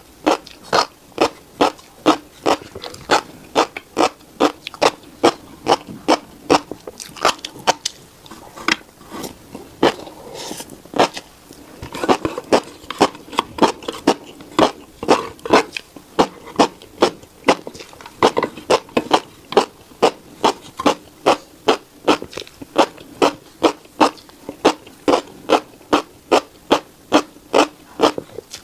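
Close-up mouth sounds of a person chewing a mouthful of tiny black seeds, in a steady rhythm of about two chews a second.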